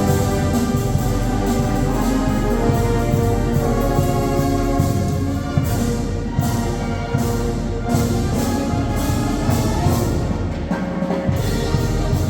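A Sierra Mixe banda filarmónica, a brass band with drums, playing a tune: held brass chords over a steady beat of drum strokes.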